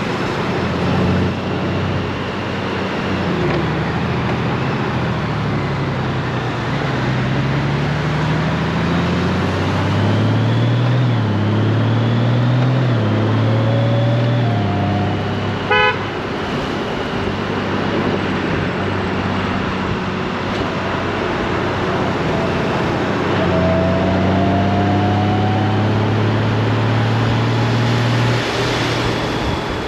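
Honda GoldWing's flat-six engine pulling through its automatic dual-clutch gearbox, the pitch climbing and dropping back at each upshift, over steady wind and road noise. About halfway through comes a short, loud, buzzing burst.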